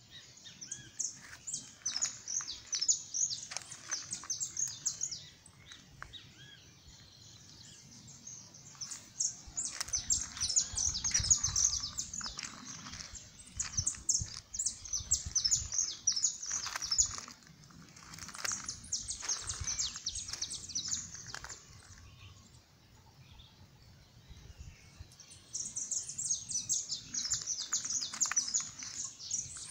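Small birds chirping in fast runs of high notes. The chirping comes in long bouts with pauses of a few seconds between them.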